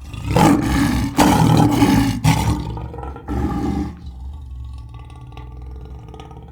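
A large animal roaring, loud in several bouts over the first four seconds, then going on more quietly.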